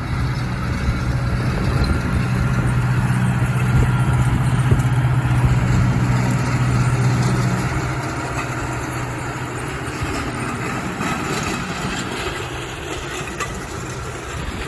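New Holland tractor's diesel engine running steadily as it pulls a planter across the field, its low hum strong for the first eight seconds or so, then fading as the tractor moves away.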